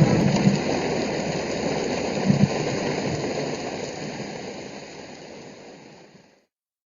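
Recorded rain, a steady hiss of falling rain, fading out over about six seconds to silence. A short low thump sounds about two seconds in.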